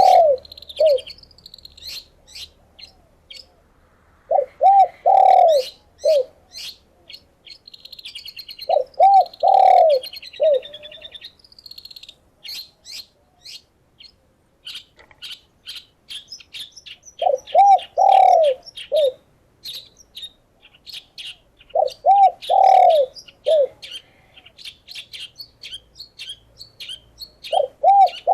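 Doves cooing in repeated phrases of three or four rounded notes, one phrase every four to five seconds with a longer pause in the middle. Many short, high-pitched chirps from smaller songbirds run throughout.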